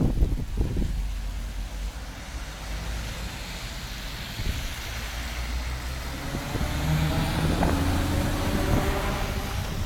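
Scania V8 diesel truck engine running with a deep, low sound that comes in suddenly and loudly at the start. About two-thirds of the way in, its pitch climbs and it grows louder as the truck accelerates.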